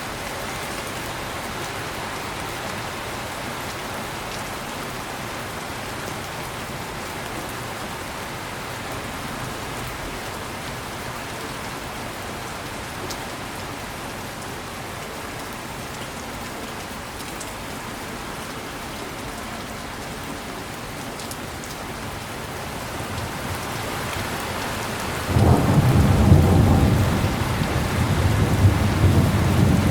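Steady heavy rain falling. Near the end a loud, deep rumble of thunder breaks in suddenly and keeps rolling.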